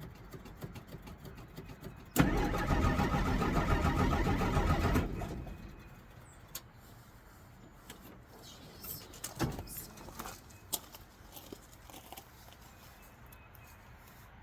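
1963 Jeep Gladiator's engine being cranked by the starter with the choke on, a hard cold start. It cranks for about three seconds, then stops and dies away, and a few sharp clicks follow.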